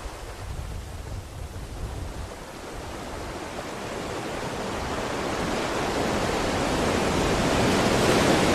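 Ocean surf washing on a shore, a steady rush of breaking waves that swells steadily louder through the second half.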